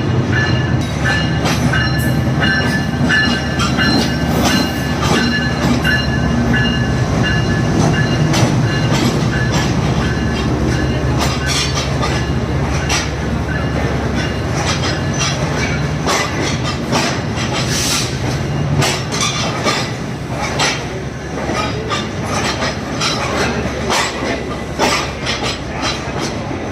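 Green Line passenger train running on the rails: a steady rumble with a thin high squeal through the first half, then rapid clattering of wheels over the track in the second half.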